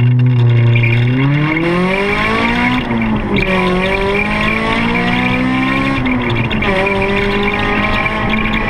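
Racing car engine accelerating through the gears. Its pitch climbs, drops at a gear change about three seconds in, climbs again, and drops again about six seconds in.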